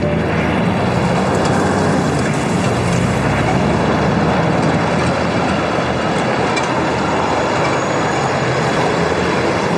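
A vehicle running: a steady, loud rumble with a low hum underneath, starting suddenly as the music stops.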